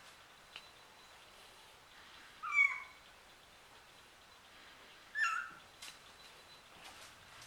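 Young kitten meowing twice, two short high-pitched cries about three seconds apart.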